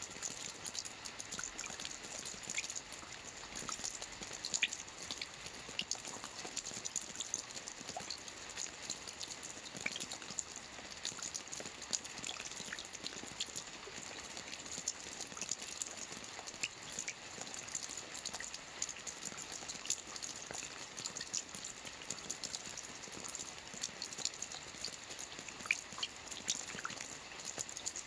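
Soft rain falling on a roof: a steady patter of many small drop impacts, with sharper single drips standing out now and then.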